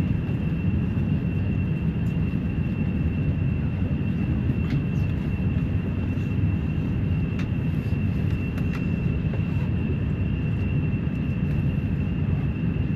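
Steady airliner cabin noise before takeoff: an even low rumble with a thin, steady high whine over it, and a few faint clicks.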